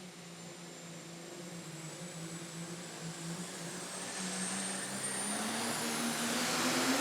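Super stock diesel pulling truck engine running hard, growing steadily louder, with a high whistle over it. Both the engine note and the whistle climb slowly in pitch.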